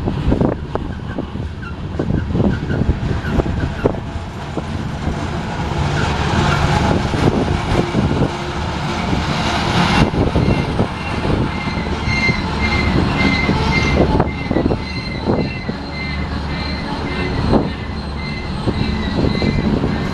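Union Pacific grain train's cars rolling past, wheels clattering steadily over the rails. In the second half a high-pitched wheel squeal comes and goes over the clatter.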